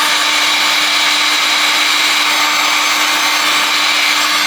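Hot-air gun blowing steadily, a loud whooshing fan noise with a steady hum, warming the glued flex cable so its adhesive softens for removal.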